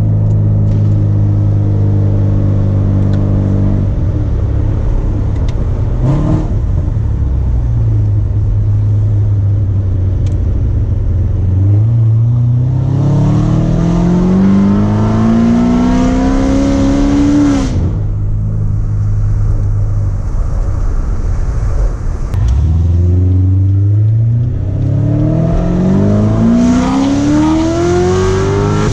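Corvette C7 Z06's supercharged pushrod V8 breathing through long-tube headers, running at steady speed and then pulling hard twice. Each time the engine note climbs steadily in pitch to a high wail, then drops off sharply at a shift or lift-off, once about two-thirds of the way in and again at the very end.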